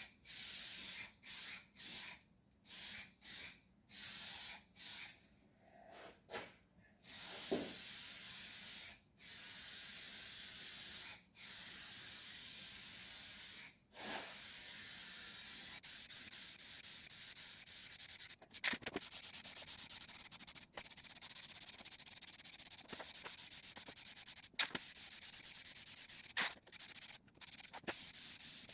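Paint spraying: a steady hiss in short on-off bursts, then long passes of several seconds each with brief pauses.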